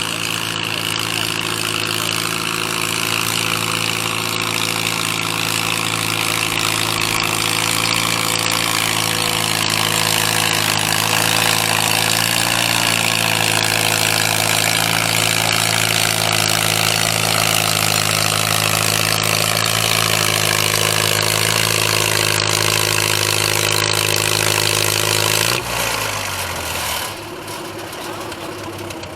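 Antique gas tractor engine running hard at high, steady speed while pulling the weight sled, its pitch sagging slightly as the pull goes on. About 26 seconds in, the throttle is cut back sharply: the pitch drops and the engine settles to a quieter, lower-speed run.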